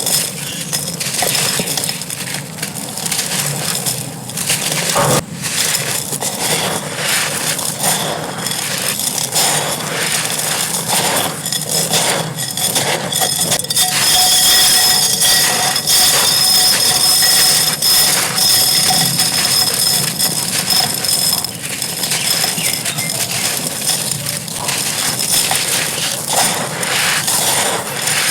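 Dry clay pot pieces crumbling and being crushed, a dense gritty crackle of many small cracks and snaps.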